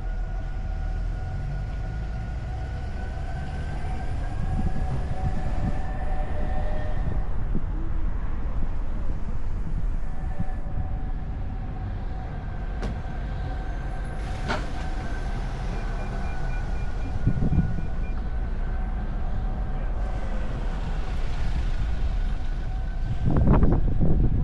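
Car driving on a winding road: a steady low road and engine rumble with a faint whine that slowly rises and falls in pitch. The low rumble grows louder near the end.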